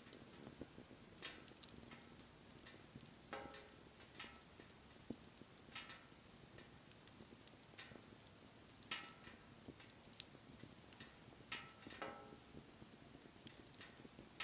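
Wood fire crackling: faint, irregular small pops and snaps over a soft hiss, with a couple of sharper snaps about nine and ten seconds in.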